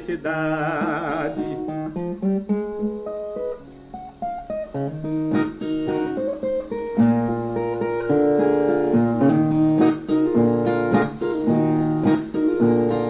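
A male voice holds the last sung note with vibrato, then a solo viola, a Brazilian ten-string folk guitar, plays an instrumental interlude of plucked notes between verses. The playing thins out around the middle and comes back fuller and louder, with a steady rhythm.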